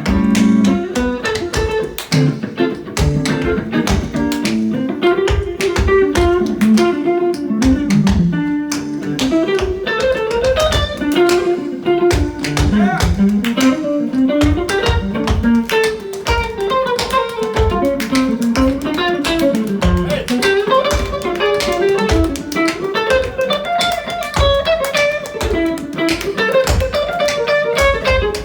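Guitar playing a winding melodic solo, with rapid tap-dance shoe taps clicking along throughout.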